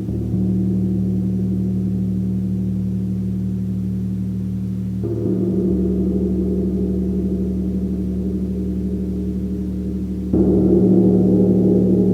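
Gong struck three times about five seconds apart, its low, sustained ringing wash swelling with each stroke; the last strike is the loudest.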